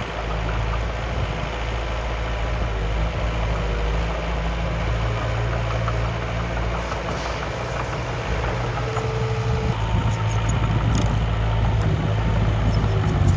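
Engine of a miniature construction machine running steadily at a low idle, picking up slightly and getting a little louder about ten seconds in.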